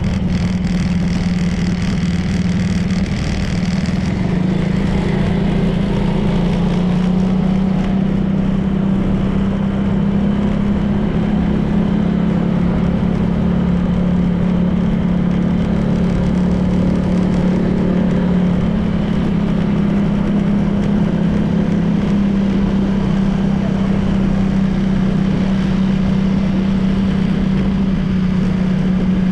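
Honda PCX 160 scooter's single-cylinder engine running at a steady cruising pace, with wind and road noise on the microphone.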